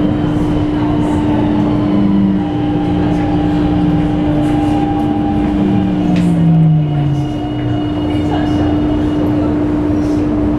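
Train running, with a steady hum throughout and a tone that falls in pitch about five to seven seconds in.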